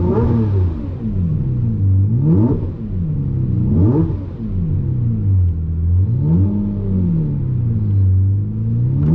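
Lamborghini Murciélago SV's 6.5-litre V12 revved in four throttle blips over its idle, the pitch rising and falling back each time.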